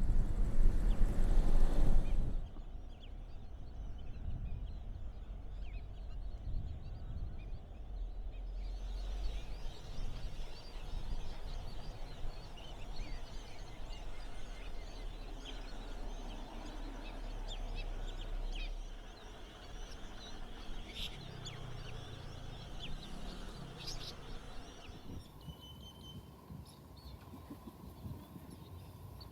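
Many birds calling at once, a scatter of short calls, over a low rumble of wind on the microphone in the first two seconds; the background changes abruptly a few times.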